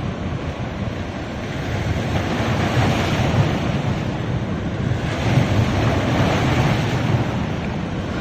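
Ocean surf washing onto a beach, swelling twice as waves break and run up the sand.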